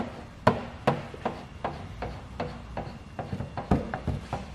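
Squeegee strokes over wet paint protection film on a car's rear hatch, pushing slip solution and air out from under the film: a quick series of short, sharp rubbing strokes, about two or three a second.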